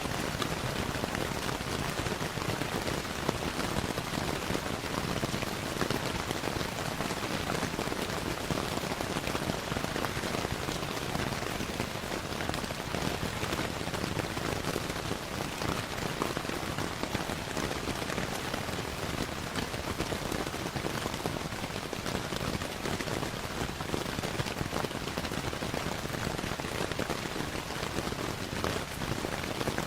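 Steady rainfall with a constant patter, mixed with the crackle of a wood fire in a fireplace, many small pops scattered through it.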